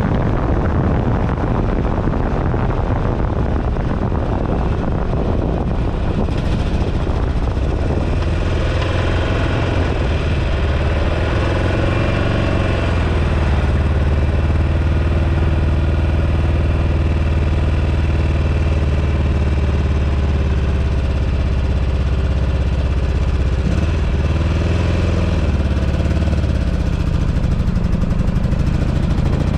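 Buell Ulysses XB12XT's V-twin engine running on the road, with wind rushing over the microphone for the first several seconds. After that the engine's steady note comes through clearly, easing down once and dipping briefly near the end.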